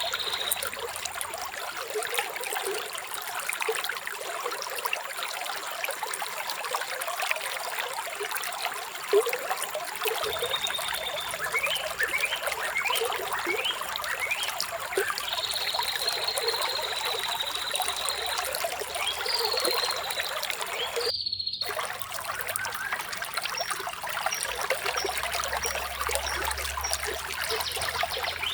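Shallow flowing water trickling and splashing steadily, with a bird calling above it: high held whistles, a run of quick falling chirps, and short high chirps near the end. The whole sound drops out for a split second about two-thirds of the way through.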